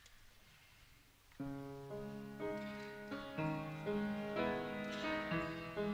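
Instrumental introduction to a song on a keyboard instrument, starting about a second and a half in after faint hiss, with chords and a melody changing every half second or so.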